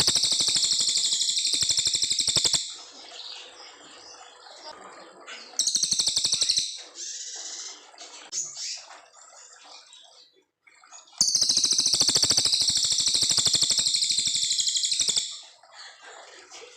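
Cililin coklat songbird singing: long, high, rapid trilled phrases, with softer chirps in between. The first phrase ends about two and a half seconds in, a short one comes near the middle, and the longest runs about four seconds before the end.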